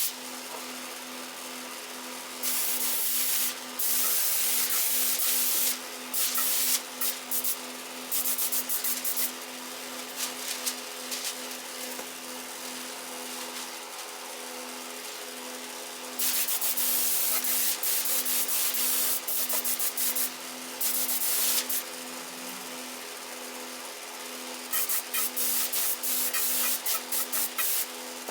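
Electric sanding or grinding tool running steadily, with a metal workpiece pressed against the abrasive in repeated bursts of loud scratchy hiss, some several seconds long and some short and choppy.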